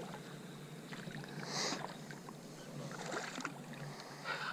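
Faint splashing and sloshing of shallow water, with a brief hissing splash about one and a half seconds in.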